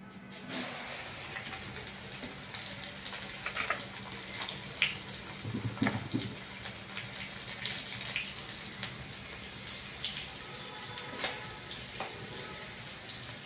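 Stuffed okra frying in hot oil in a metal kadhai: a steady sizzle starts about half a second in as the pieces go in. Scattered clicks of pieces landing and being moved in the pan come over it, with a louder knock near the middle.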